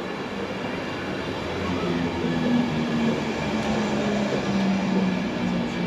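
InterCity 225 electric train running along the track, a steady rumble with a low hum that comes up and grows louder about two seconds in.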